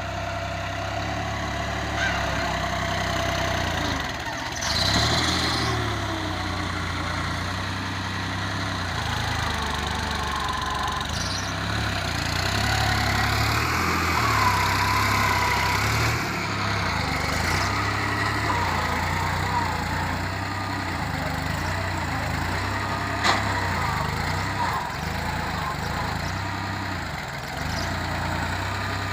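New Holland tractor's diesel engine running steadily, with a few short higher whines over it in the middle and a sharp click near the end.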